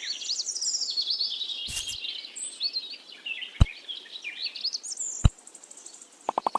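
Small birds chirping and twittering, many quick high calls overlapping one another. Three sharp clicks come a couple of seconds apart, and a rapid run of ticks starts right at the end.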